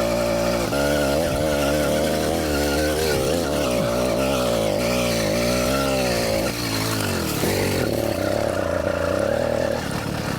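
Small 80cc two-stroke engine bolted to a mountain bike, running at high revs under load, its pitch wavering up and down as the throttle is worked. About six and a half seconds in the revs drop away briefly, then climb back and hold high.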